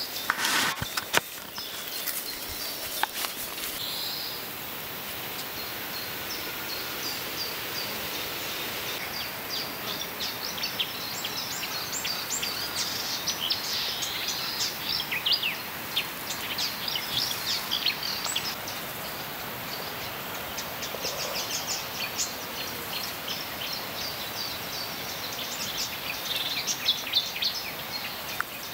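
Birds chirping repeatedly in short, high calls over a steady outdoor background hiss, with a few sharp clicks in the first couple of seconds.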